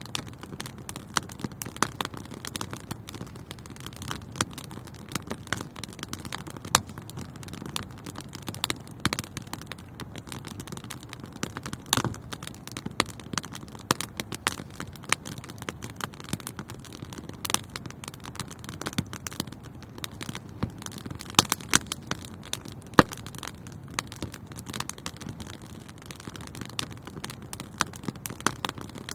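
Wood fire burning in a fireplace, a steady low rumble of flames with frequent irregular crackles and sharp pops.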